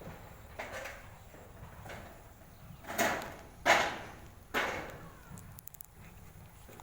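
Knocking: three loud knocks a little under a second apart near the middle, each dying away quickly, with fainter knocks before them.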